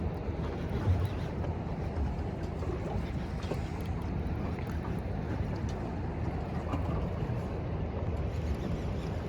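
A boat's engine running with a steady low hum, mixed with wind and water noise.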